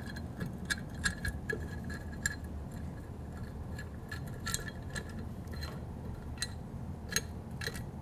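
Irregular light metallic ticks and clinks of an Allen wrench working out the socket-head screws that hold an API adapter's nose piece, some with a short ringing.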